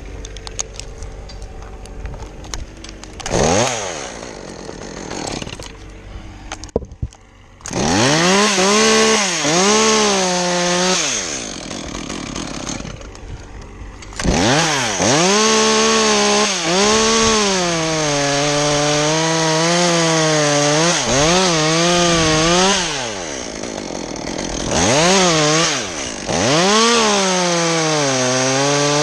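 Chainsaw cutting pine wood, its engine pitch dropping as the chain bites and rising again as it frees. A brief rev about three seconds in, then near-continuous cutting from about eight seconds on, with short drops to a lower run in between.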